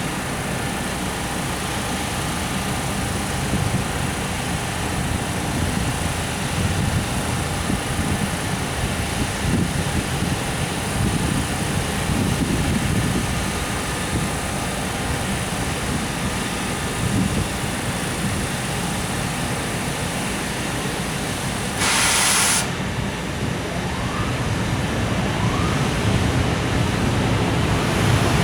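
Container freight train rolling slowly out of a station: a steady rumble of wheels on rail with a faint thin whine over it, and a short burst of hiss about two-thirds of the way through.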